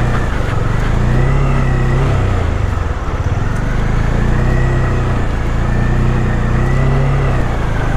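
Bajaj Dominar 400 motorcycle's single-cylinder engine running under way, its pitch dipping and rising a few times with the throttle, over a constant rushing noise.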